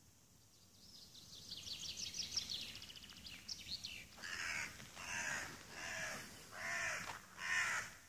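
Wild birds calling: a rapid run of high twittering notes, then four loud, harsh calls about a second apart.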